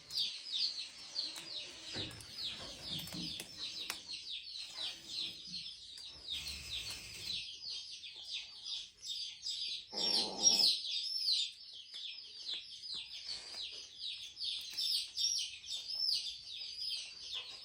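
A flock of baby chicks peeping continuously, many short high downward-sliding peeps overlapping, several a second. About ten seconds in, a short, lower, louder sound stands out above them.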